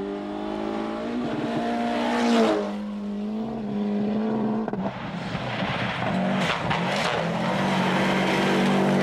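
Rally car engine heard from inside the car at speed on a stage. It revs up and then drops about two and a half seconds in, and runs steadily after that, under loud tyre and road noise that surges near the end.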